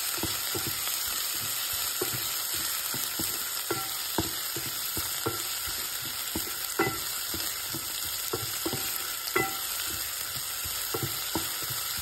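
Chopped onions, green chillies and curry leaves sizzling in hot oil in a nonstick pot, frying toward golden brown, with a steady hiss. A wooden spatula stirs and scrapes through them, making irregular knocks against the pot, some with a short ring.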